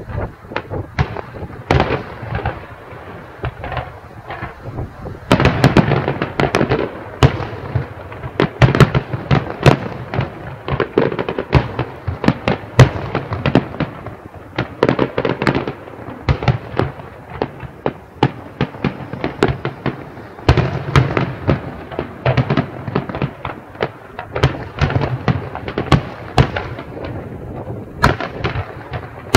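Fireworks display heard from a distance: a rapid, irregular barrage of bangs and crackling bursts that never lets up, thickening into louder volleys about five seconds in and again near the end.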